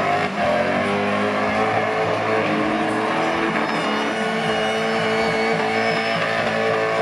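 Drift cars' engines revving hard during a tandem drift, the pitch rising and falling as the throttle is worked, with music playing underneath.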